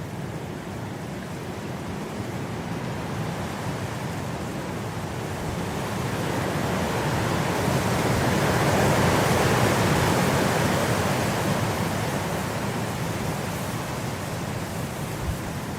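Blizzard wind blowing in a steady rush, building into a gust that peaks about two-thirds of the way through and then eases off.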